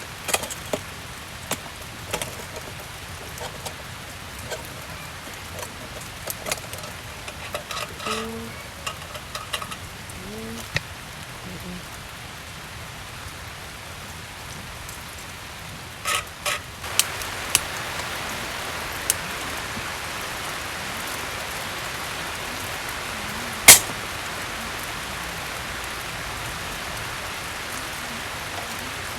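Steady rain falling, growing louder a little over halfway through, with scattered small clicks and knocks from gear being handled and one sharp, loud click near the end.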